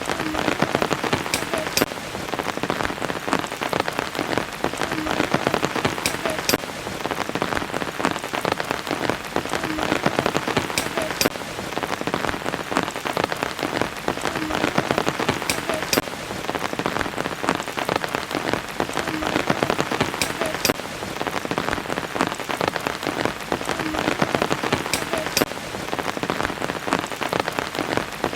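Steady rain falling, with a dense patter of individual drops. The same few seconds of drop pattern repeat about every four to five seconds.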